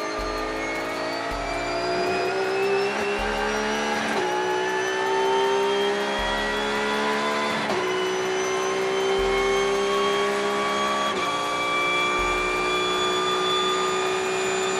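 Race car engine accelerating hard through the gears: its pitch climbs steadily, then drops sharply at each of three upshifts.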